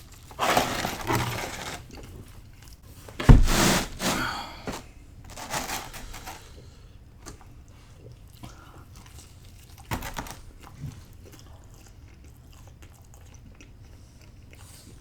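A person biting into and chewing pizza, in a series of short bites and chews. The loudest bite comes about three seconds in, and it is quieter after about six seconds apart from one more bite near ten seconds.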